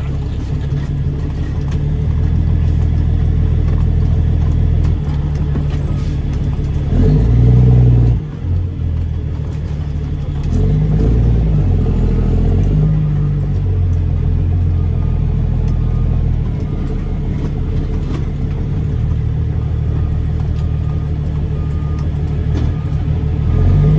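Caterpillar C13 diesel of a straight-piped Kenworth W900B dump truck running under load, its engine note rising and falling as the truck drives, with a brief drop about eight seconds in.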